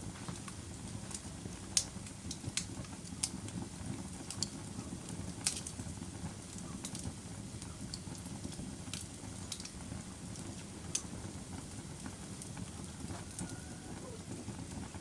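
Wood fire in a fireplace burning steadily with a low rumble of flames and scattered sharp crackles and pops at irregular intervals.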